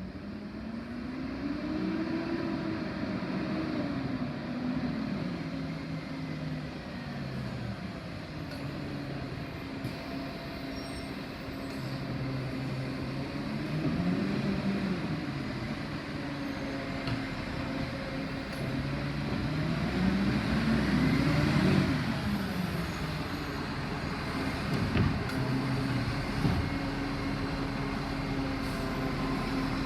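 Diesel garbage truck engine running, revving up and down several times with its pitch rising and falling, most strongly about 2, 14 and 21 seconds in, with steadier running between.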